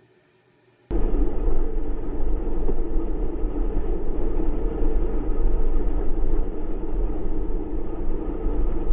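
Steady low rumble of a moving vehicle, starting suddenly about a second in after near silence.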